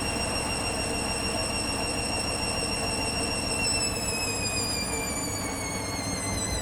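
Hoover Dynamic Next washing machine's drum motor whining as it turns the drum. A little over halfway through, the whine starts falling steadily in pitch as the drum slows, with the bathmat load a bit unbalanced.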